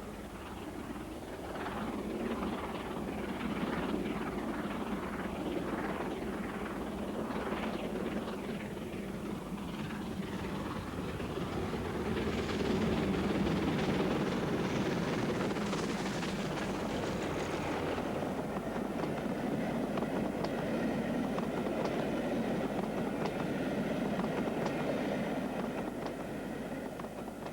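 Steam locomotive hauling a train, its exhaust beats quick and close-set through the first part, then a continuous rumble of the train running past, with faint steady tones later on.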